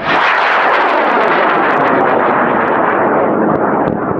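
High-power rocket motor igniting and burning at liftoff: a loud roar that starts suddenly and holds steady, easing slightly near the end. The announcer judges it a near-full M-class motor.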